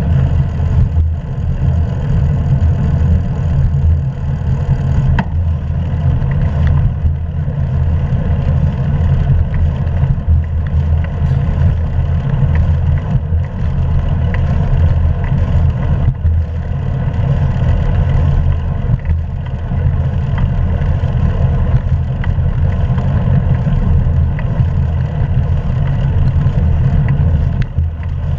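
Wind buffeting the action camera's microphone as a bicycle rides along, with the hiss of tyres on the road. It makes a loud, steady, low rumble, with a few light clicks.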